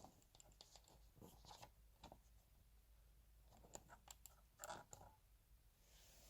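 Near silence, with faint scattered clicks and light rustles.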